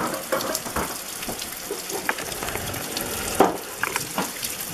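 Heavy rain pouring onto wet gravel and puddles: a steady hiss of many drops, with scattered sharper splats standing out, one louder about three and a half seconds in.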